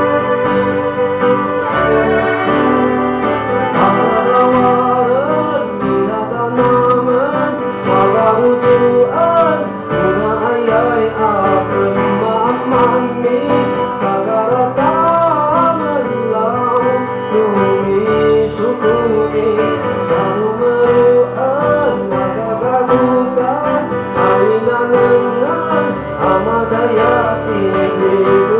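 Live music: a male singer sings a slow, wavering melody over guitar accompaniment.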